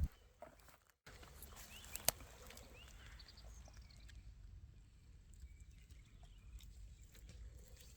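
Faint outdoor ambience: a steady low rumble with a few brief high chirps between about two and three and a half seconds in, and one sharp click about two seconds in.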